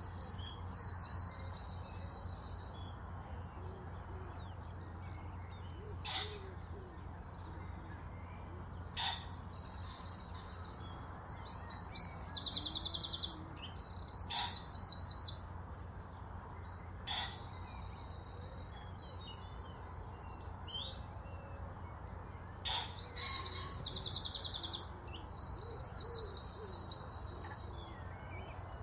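A songbird singing in bouts of high, rapid trilled phrases, three bouts about ten seconds apart, with single sharp call notes between them.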